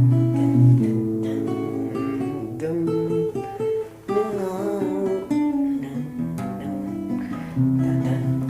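Acoustic guitar music, strummed chords with a moving melody line, with a brief break about halfway through.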